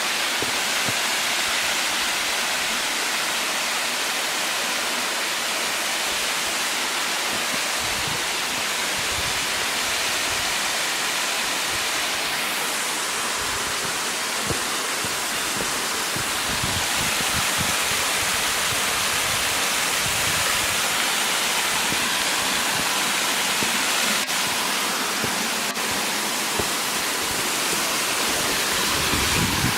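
Water tumbling down a series of cascades, a steady full rush of falling water over rock.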